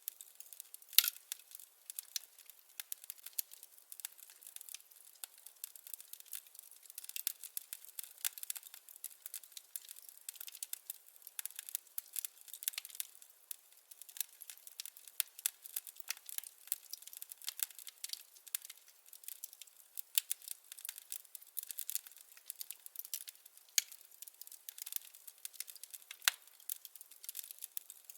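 Wood fire crackling: a dense run of small irregular snaps, with a few louder pops about a second in and twice near the end.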